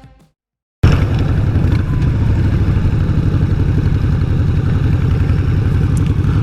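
Motorcycle engine running at a steady speed while riding, a rapid low pulsing that cuts in abruptly about a second in.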